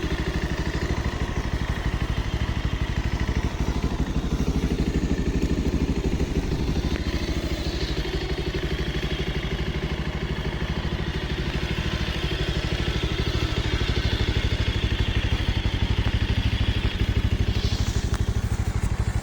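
Bajaj Pulsar 180's single-cylinder four-stroke engine running steadily at idle.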